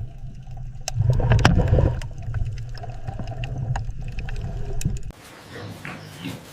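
Underwater rumble and gurgling water with scattered clicks, as heard in a sea turtle's underwater footage. It cuts off abruptly about five seconds in, and a much quieter stretch follows.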